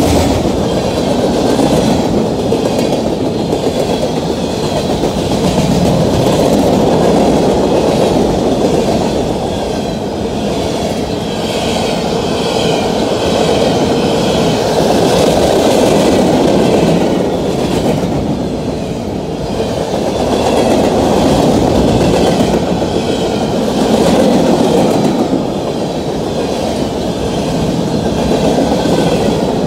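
Freight train of covered hopper cars rolling past close by: a loud, continuous rumble and clatter of steel wheels on rail that swells and eases every few seconds. A faint high wavering whine from the wheels rides above it.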